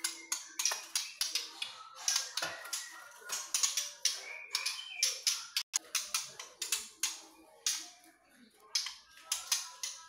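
Caged songbirds giving rapid, irregular short sharp clicks mixed with brief chirps.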